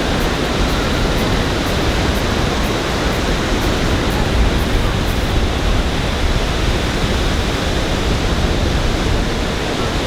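Steady, loud rush of ocean surf breaking on a beach, mixed with a low buffeting rumble of wind.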